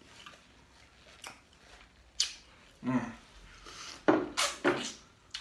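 Close-miked mouth sounds: a hummed "mm", then a couple of loud wet smacks about four seconds in.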